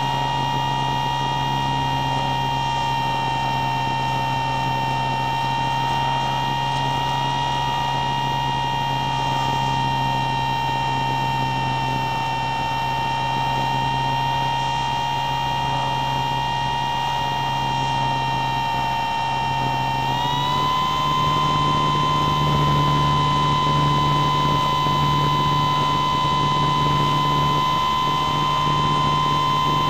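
Motor and propeller of a motor glider heard from a camera mounted on the plane: a steady high whine over a low drone. About two-thirds of the way through, the whine steps up in pitch and gets a little louder as the throttle is opened.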